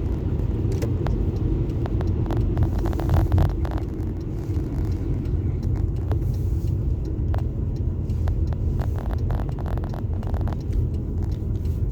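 Car in motion heard from inside the cabin: steady low road and engine rumble, with scattered faint clicks and ticks.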